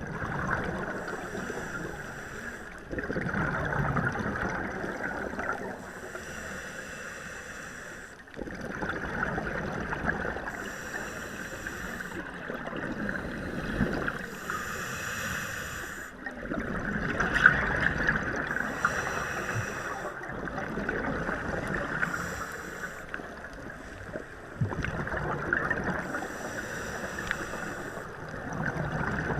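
Boat under way: water rushing and splashing past the hull, the noise swelling and easing every few seconds.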